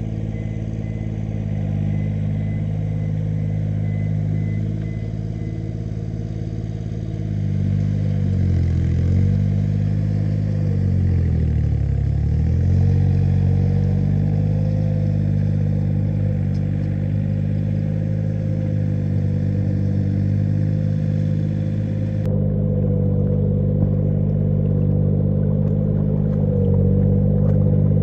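An engine running steadily, its speed dipping twice in the middle and picking back up.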